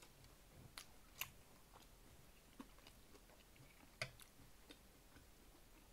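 Faint closed-mouth chewing of a bite of fried pork chop, with a handful of soft, separate clicks; the sharpest click comes about four seconds in.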